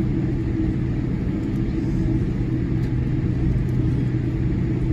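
Steady low rumble inside the cabin of a Boeing 787-8 Dreamliner taxiing, its engines at idle, with a constant low hum under it.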